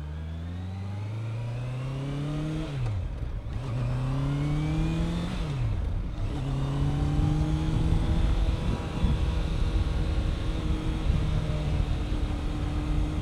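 Motorcycle engine accelerating through the gears: the revs climb, drop sharply at an upshift about two and a half seconds in, climb again and drop at a second upshift about five and a half seconds in, then hold nearly steady at cruising speed with rising wind rush.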